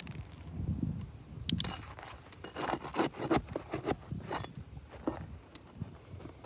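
Roof shingles being pried and scraped as they are worked loose: a run of short, sharp scrapes and rasps, thickest between about one and a half and four and a half seconds in, with a low rumble of handling in the first second.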